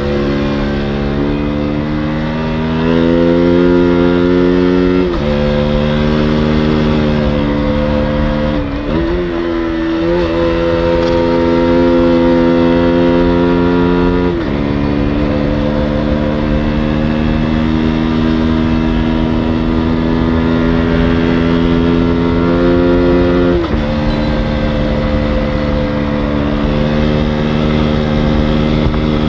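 KTM 125 Duke's single-cylinder four-stroke engine running at fairly steady revs under way. Its note drops suddenly in pitch about five, fourteen and twenty-four seconds in, and dips then climbs to a higher pitch around nine seconds in.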